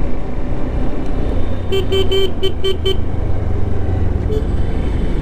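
A vehicle horn toots about six times in quick succession around two seconds in, over the steady low rumble of wind and engine on a moving motorcycle in traffic.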